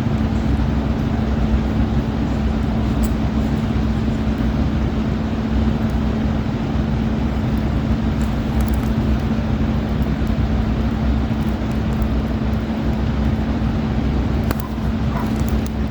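Steady low rumbling noise with a constant hum, unchanged throughout, with a few faint clicks near the end.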